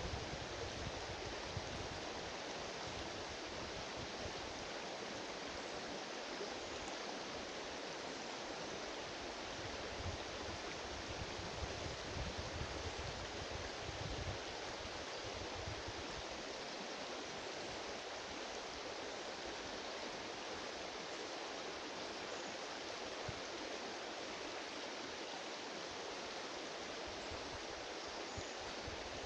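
River water flowing steadily: an even rushing sound that does not change.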